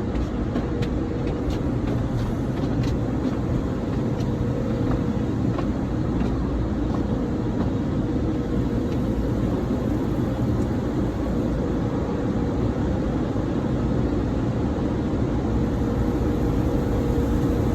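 Automatic car wash running, a steady dense rushing noise with a faint steady hum; a few light ticks in the first few seconds.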